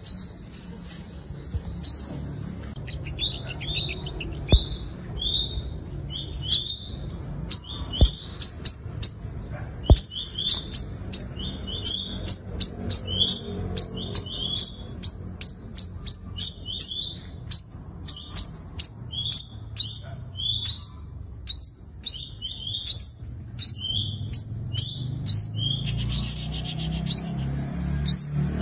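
Five-coloured sunbird singing a rapid series of high, sharp chips and short downward-sweeping notes. The notes come a few at a time at first, then pour out almost continuously from about six seconds in. This is the loud territorial 'fighting' song used to lure and provoke rival males.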